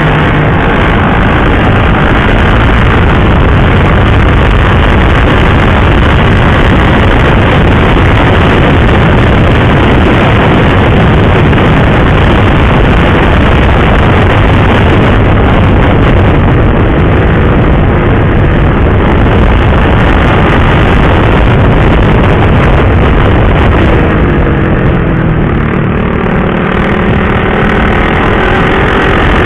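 Sport motorcycle engine running at riding speed under loud, steady rushing noise. The engine pitch rises and falls around 24 to 28 seconds in.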